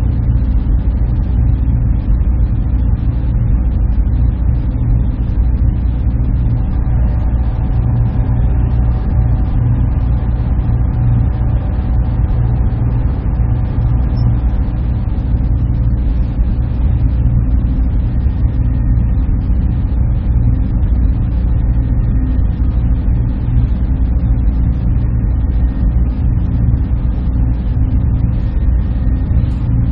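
Server room ambience: the machines and their cooling running with a steady low hum, with a few faint steady tones above it.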